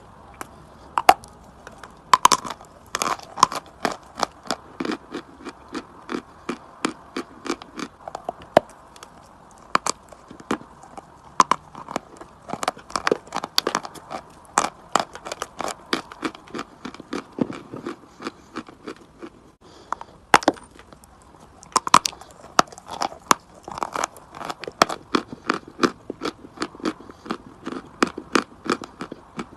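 Chalk being bitten and chewed close to the microphone: a dense run of sharp crunches and crackles, several a second, with a brief lull about two thirds of the way through.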